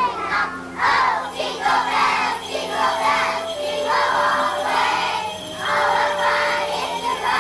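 Jingle bells shaken in a steady beat, about once a second, over a musical accompaniment with a long held note.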